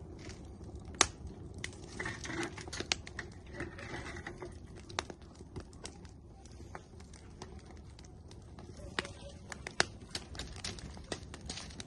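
Firewood burning in an outdoor grill, crackling with irregular sharp pops and snaps over a steady low rumble. The loudest pops come about a second in and again near the end.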